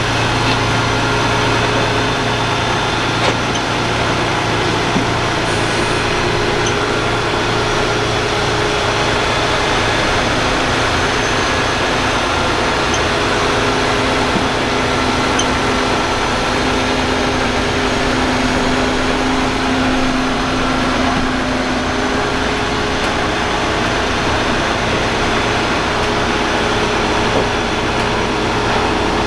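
Heavy military truck's diesel engine idling steadily.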